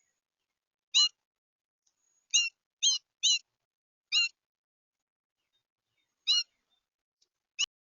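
A bird gives short, clipped calls, six in all and irregularly spaced, three of them in quick succession about two and a half seconds in. A single sharp click comes near the end.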